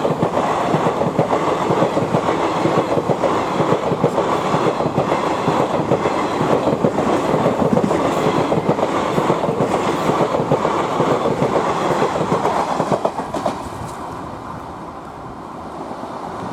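Train passing at speed through a level crossing, its wheels clattering rapidly over the rails. About 13 seconds in the clatter stops sharply and a quieter rumble is left as the train moves off.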